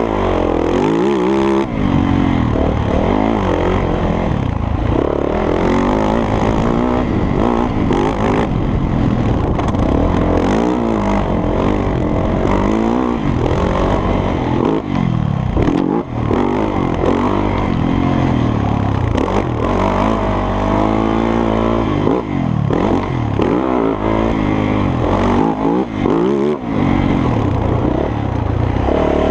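The single-cylinder four-stroke engine of a Yamaha YZ450F three-wheeler conversion under hard riding, its revs rising and falling over and over as the throttle is opened and closed.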